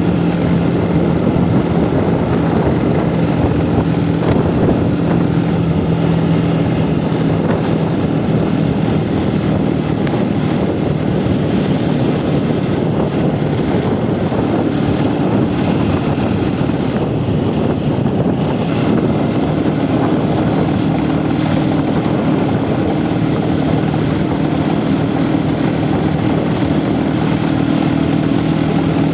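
Aprilia Tuono 125's single-cylinder engine running while the bike is under way, mixed with a steady loud rushing noise. The engine hum is clear at the start, sinks under the rush in the middle and comes back in the last third.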